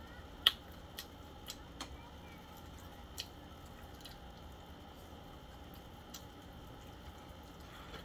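Close-up eating sounds: a person chewing with a few sharp wet mouth clicks and smacks, the loudest about half a second in.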